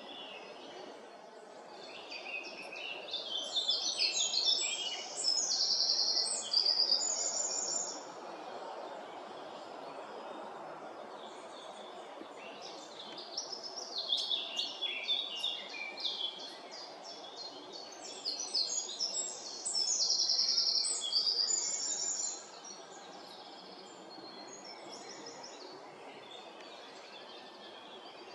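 A songbird sings two long, fast, varied songs full of rapid trills, each lasting several seconds, with a quiet gap between them. Under it runs a steady, even background noise.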